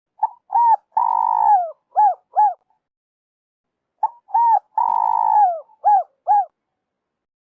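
Spotted dove cooing: two identical calls about four seconds apart, each a couple of short coos, one long drawn-out coo falling off at its end, then two short coos.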